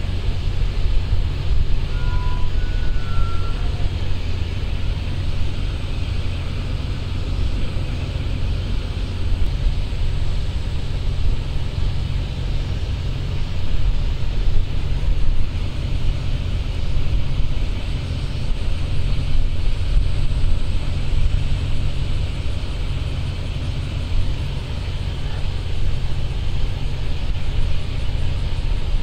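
Large patrol ship's engines running, a steady low rumble with a wash of noise over it.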